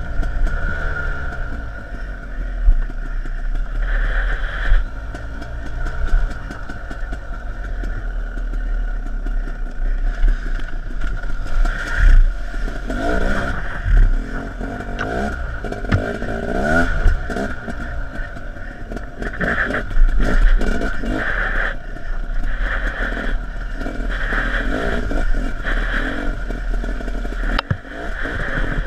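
An off-road dirt bike being ridden, its motor rising and falling in pitch several times as the throttle opens and closes, with scattered knocks and clatter.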